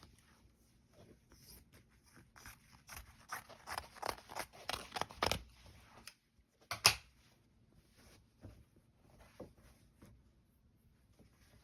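Rustling and crinkling of foundation paper and fabric being handled for paper piecing, a quick run of small crackles, then one sharp click about seven seconds in.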